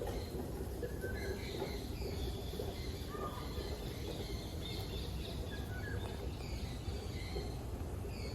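Birds chirping: many short, high calls scattered throughout, over a steady low background rumble.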